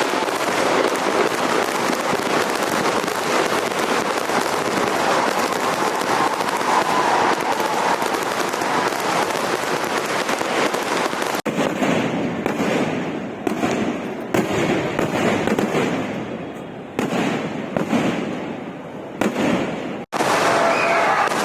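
Fireworks display: a dense, continuous crackle of rapid firecracker explosions, then, after a cut about halfway through, separate louder bangs, each fading away before the next.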